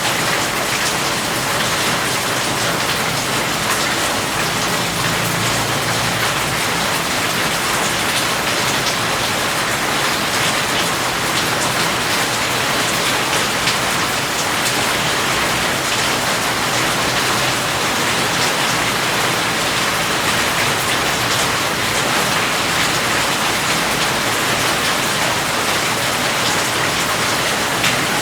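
Steady rain falling, a dense even hiss with fine pattering of drops on a surface.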